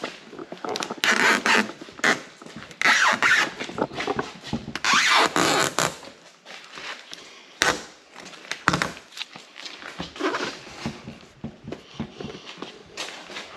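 Scraping and rustling from hands working a plastic hood protector and its adhesive tape, in three longer bursts in the first half with shorter scrapes and clicks after.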